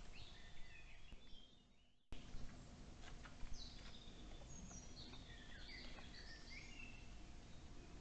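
Wild songbirds singing in short chirping and warbling phrases over a steady forest background hiss. About two seconds in, the sound fades briefly and then cuts back in abruptly.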